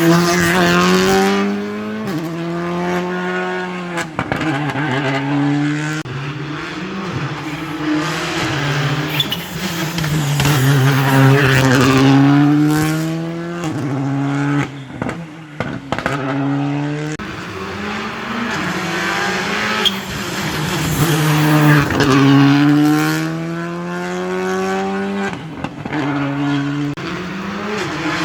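Rally car engine at full throttle on a wet tarmac stage, its revs climbing and dropping again and again through gear changes and braking for corners.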